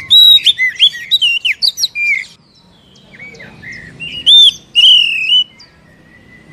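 Oriental magpie-robin singing: two loud phrases of quick, varied whistled notes with sharp up-and-down slurs, the second starting about three seconds in after a short pause.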